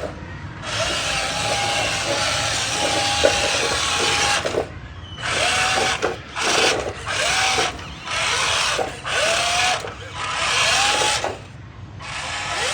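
Electric drive motor and gearbox of a remote-control truck whirring under throttle. It runs steadily for about four seconds, then comes in a string of short bursts, its pitch rising as the motor spins up at the start of each one.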